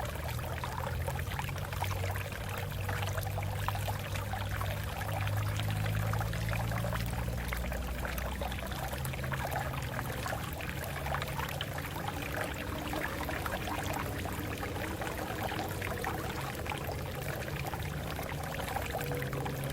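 Water flowing over rocks, a steady rush with lower gurgling tones that shift now and then.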